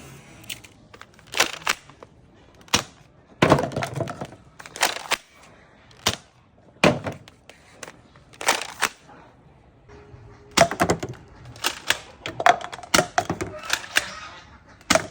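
Toy revolver being worked and fired: a string of sharp plastic snaps and clicks at irregular intervals, some coming in quick clusters.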